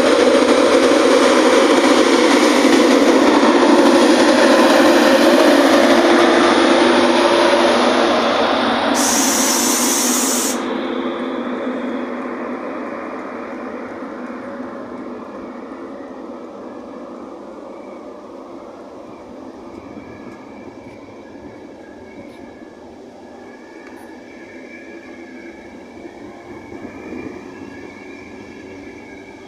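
Class 91 electric locomotive hauling an InterCity 225 train slowly past, its motor and fan noise loud at first and fading over the first dozen seconds as the locomotive draws away and the coaches roll by. A brief high hiss comes about nine seconds in, and a faint high squeal runs through the second half.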